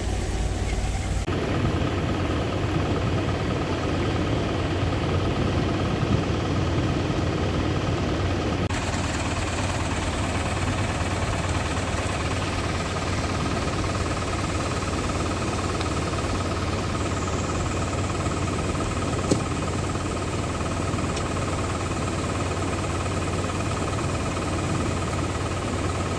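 An engine running steadily at idle, a constant low hum, with the background noise changing abruptly twice early on.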